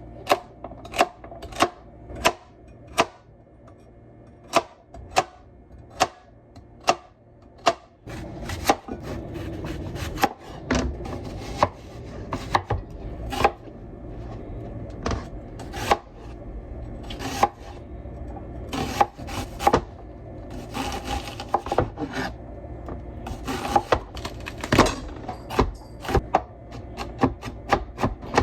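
Knife chopping on a wooden cutting board: steady strokes about one and a half a second for the first several seconds, then more irregular knocks mixed with scraping and rustling.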